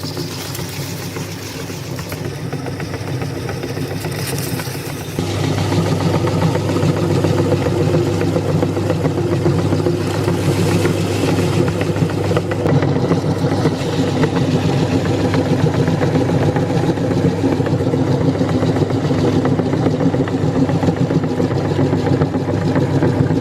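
Electric meat grinder running steadily, grinding potato chips. It gets louder about five seconds in.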